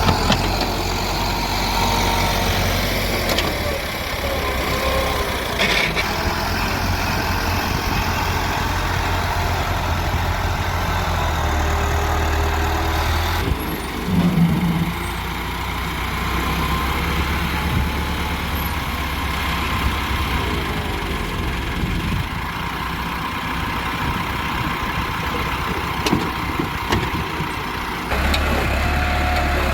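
Heavy diesel machinery engines running steadily at work, with a few brief knocks.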